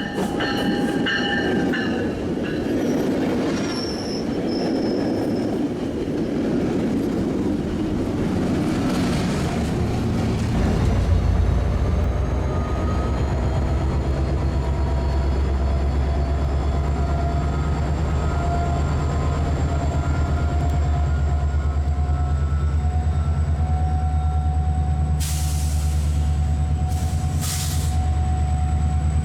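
A train running on the rails: wheels rumble and squeal in long thin tones. About ten seconds in, a diesel locomotive engine's steady drone takes over and stays loud.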